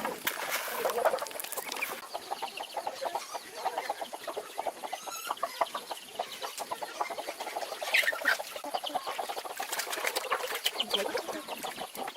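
Chickens clucking, many short calls overlapping, with one louder call about eight seconds in.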